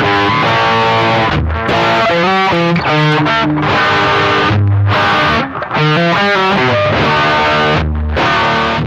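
Distorted electric guitar playing a repeating riff, each phrase lasting about two seconds with short breaks between.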